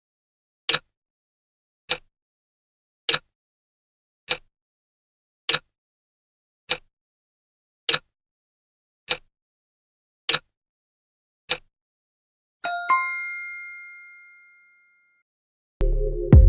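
Countdown-timer sound effect: a sharp tick about every 1.2 seconds, ten in all, then a single bell ding that rings out, signalling time is up. Electronic music starts just before the end.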